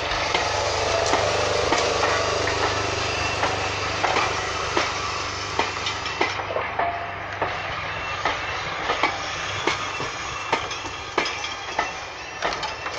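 Passenger carriages of a steam-hauled train rolling past close by: a steady rumble with repeated clicks as the wheels cross the rail joints, slowly fading as the train moves away.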